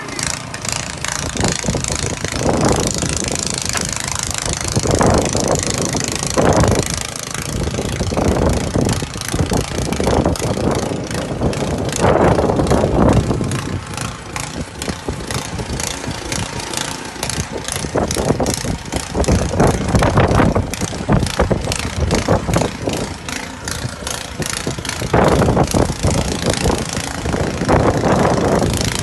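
Gasoline snow blower engine running steadily, with a rapid firing chatter and louder surges now and then.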